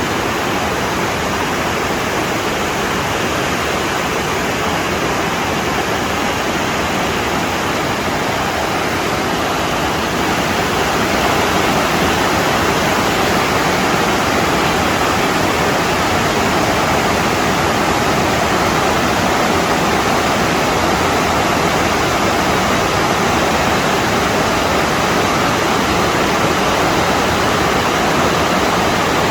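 Water rushing steadily over small cascades, a continuous roar that grows a little louder about a third of the way in.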